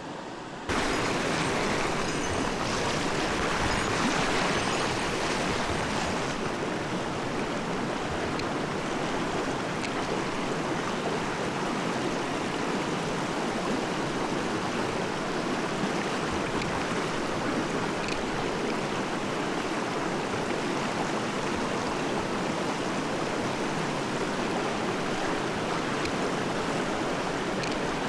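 Rushing water of a mountain trout stream, a steady, even rush that comes in suddenly about a second in and holds level.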